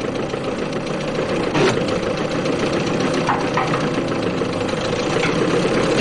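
Early racing car's engine idling with a steady, rapid chugging, with a sharp click about one and a half seconds in.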